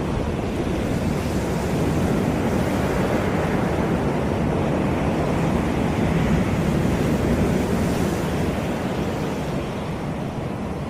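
Caribbean sea surf washing onto the beach: a steady rushing wash that swells gently through the middle and eases off near the end.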